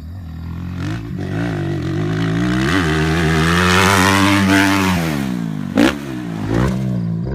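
Dirt bike engines. One runs steadily close by while another rides past, getting louder over about four seconds and then dropping in pitch as it goes by. A sharp bang comes just before six seconds in.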